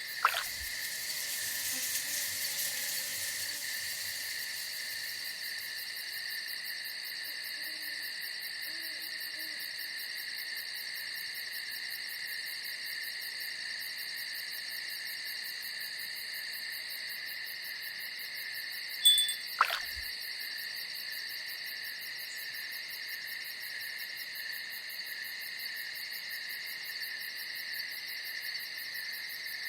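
Night chorus of crickets and other insects, a steady high trilling, with an owl hooting faintly underneath. A short sharp click sounds at the very start and again about two-thirds of the way through.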